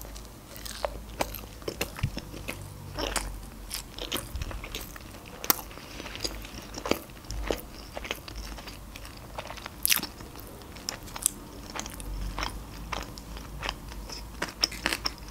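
A person chewing a mouthful of sushi roll close to the microphone, with many irregular sharp mouth clicks and smacks.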